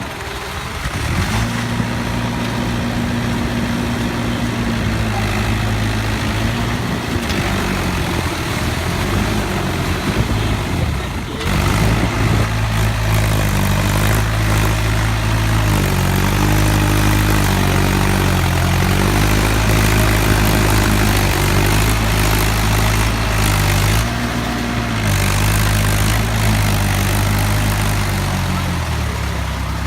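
Mahindra 575 DI tractor's four-cylinder diesel engine running under load in a puddled field, its pitch rising and falling several times as the engine speed changes, with a brief drop about eleven seconds in.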